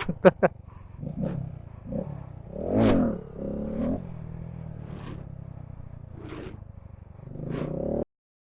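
Car engines running at a car meet, with a rev that rises and falls about three seconds in and short clatters around it; the sound cuts off abruptly shortly before the end.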